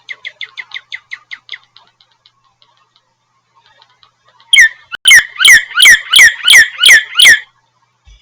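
Northern cardinal singing: a fast run of short down-slurred whistles that fades out, then, after a pause of about three seconds, a loud series of about eight clear down-slurred whistles, roughly three a second.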